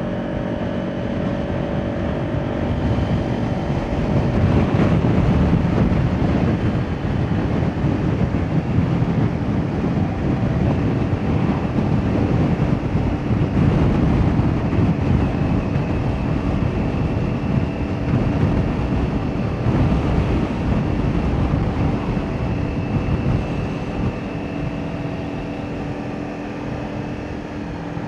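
Kawasaki Ninja 400's parallel-twin engine running through an Akrapovic exhaust while riding, with wind rushing over the microphone. Engine and wind get louder about four seconds in and ease off near the end.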